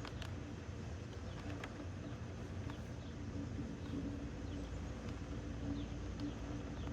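Steady low outdoor rumble with a few faint, short high chirps scattered through it, like small birds calling.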